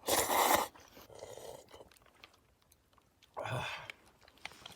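A person eating udon noodles: a loud slurp at the start, then quieter chewing, and another short slurping burst a little past three seconds in.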